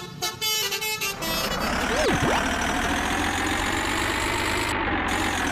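A bus horn sounds a few steady tones for about the first second and a half, then the bus's engine runs steadily, with a brief gliding squeal about two seconds in.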